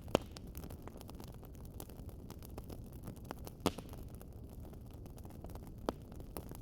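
Wood fire crackling steadily over a low rumble, with a few sharper pops: one near the start, one past halfway and one near the end.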